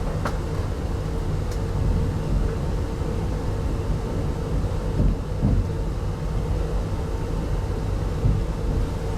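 Interior of a 25T passenger coach running at speed: a steady low rumble of wheels on the rails with a faint steady hum, and a few brief knocks along the way.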